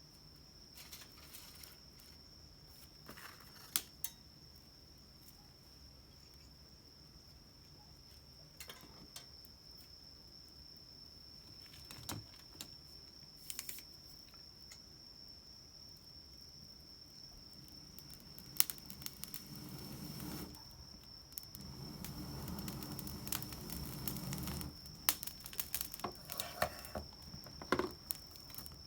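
Small twig fire on a balcony with scattered sharp clicks, crackles and handling noises. A rushing sound builds for several seconds in the second half, and a steady high whine runs underneath.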